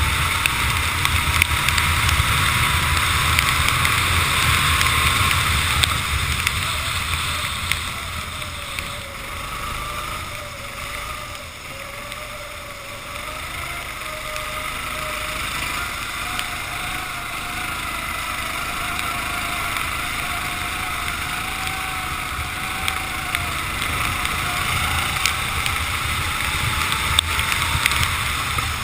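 Racing kart engine running hard on a wet track, its pitch dropping and climbing again as the kart slows and accelerates, under a steady rush of wind and spray.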